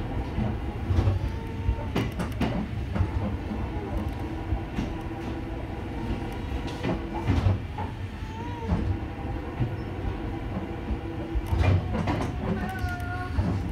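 Ohmi Railway electric train running along the track, heard from inside the car: a steady low rumble of wheels on rail, broken by repeated knocks as the wheels pass rail joints. A couple of short wavering squeals come about two-thirds of the way in and again near the end.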